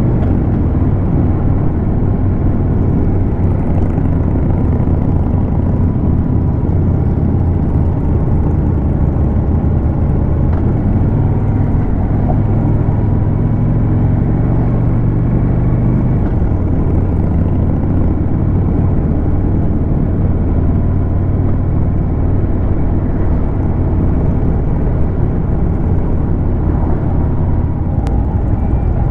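Harley-Davidson Road King's V-twin engine running steadily at cruising speed, with wind rushing over the microphone. The engine note shifts slightly about halfway through.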